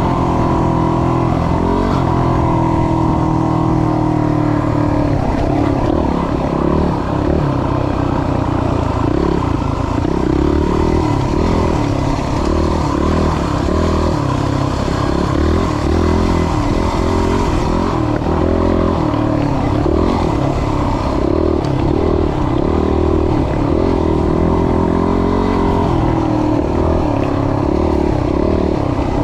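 Yamaha WR250's single-cylinder four-stroke engine running while the bike is ridden. The engine holds fairly steady for the first few seconds, then its revs rise and fall about once a second as the throttle is worked.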